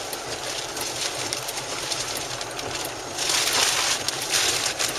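Wind rushing, a steady hiss that swells louder in gusts from about three seconds in.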